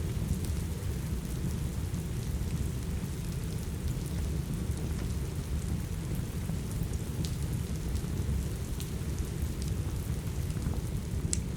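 Steady rain with a low, rumbling wash, mixed with the scattered sharp crackles and pops of a wood fire in a fireplace; one louder pop near the end.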